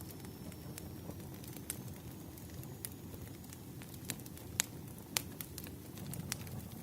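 Wood fire burning: irregular sharp crackles and pops over a low steady rumble, the loudest pops a little past the middle.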